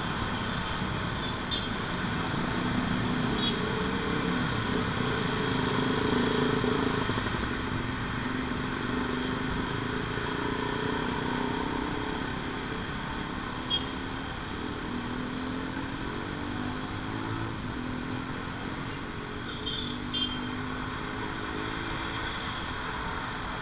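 Motorcycle engine running on the move over steady wind and road noise, its pitch climbing a few seconds in as it speeds up, then easing and shifting again later; a couple of short clicks near the middle and later on.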